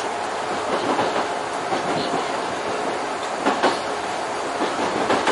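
Kintetsu electric commuter train running along the track, heard from the driver's cab: a steady rolling noise with a few sharp clicks of the wheels over rail joints.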